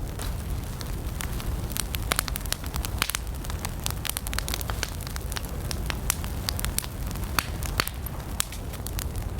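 Campfire of burning wood crackling: many sharp, irregular pops and snaps over the steady low rush of the flames.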